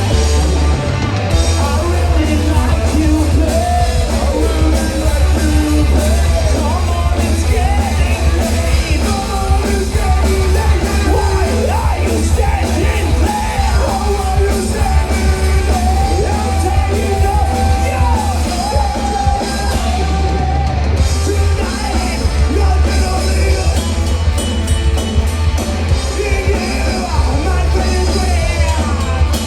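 Live rock band playing loudly with distorted guitars, bass and drums, and a singer shouting the vocals.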